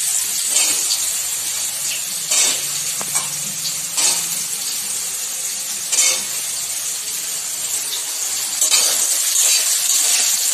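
Soya chunks sizzling steadily in hot mustard oil in a steel kadai, with a short knock or scrape of the metal spatula against the pan about every two seconds.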